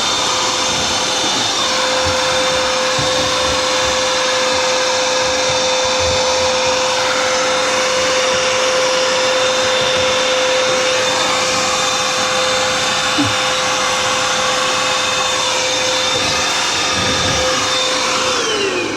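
Vacuum cleaner running steadily with a high whine, sucking lint and fluff out from around a tumble dryer's heating elements. Near the end it is switched off and the motor's whine falls away.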